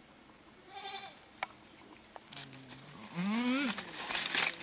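Goat bleating: a short, quavering bleat about a second in, then a longer, lower call that rises and then falls in pitch, followed by rustling.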